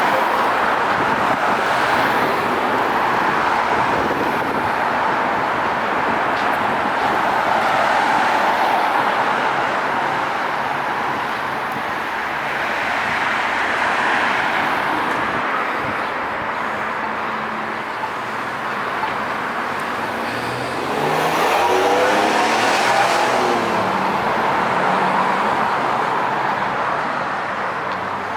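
Steady city road traffic, tyre and engine noise rising and falling as cars pass. About three-quarters of the way through, a louder vehicle with a low engine note goes by.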